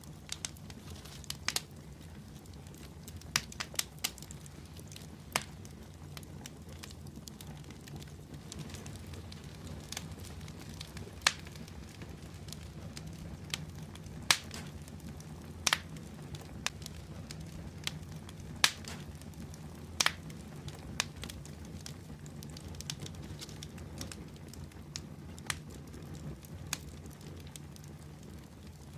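Fire in a fireplace crackling, with sharp pops and snaps at irregular intervals over a steady low rumble of the flames.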